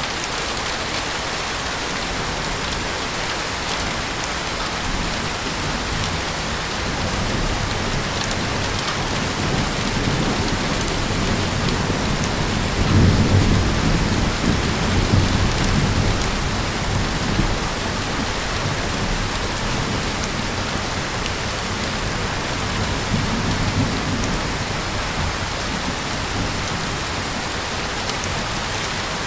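Heavy rain falling steadily, with a low rumble of thunder swelling up about halfway through and a fainter one later.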